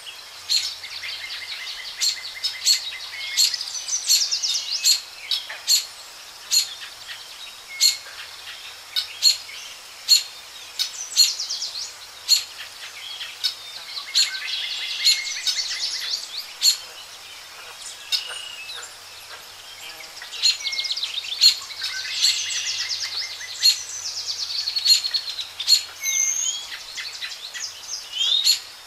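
Several birds singing and calling: rapid trills and many short, sharp chirps over a steady outdoor hiss.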